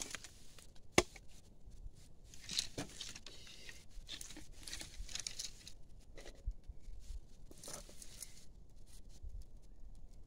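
Irregular rustling and crinkling handling noise, with a single sharp click about a second in.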